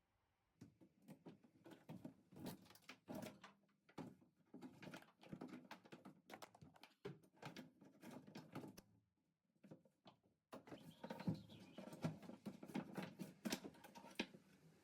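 Faint, irregular clicking and knocking as parts of a boat's dashboard are pulled out and handled, with a short pause partway through.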